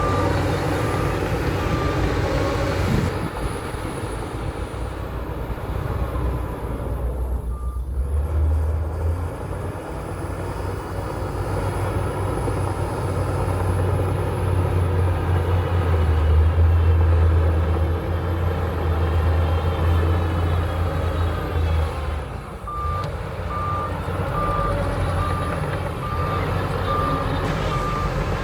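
Shantui bulldozer's diesel engine working, its low note swelling louder in the middle as it pushes. Its reversing alarm beeps in an even rhythm at the start and again near the end, the sign that the dozer is backing up.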